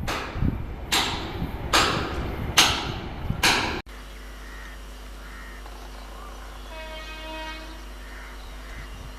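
Passing express train's wheels clacking over rail joints in a steady rhythm, a loud clack a little under once a second. It cuts off abruptly at about four seconds to a quieter steady hum, with a faint train horn a few seconds later.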